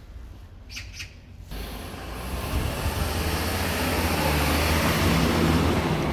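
A motor vehicle passing close by: engine and road noise swell over a few seconds and fade near the end.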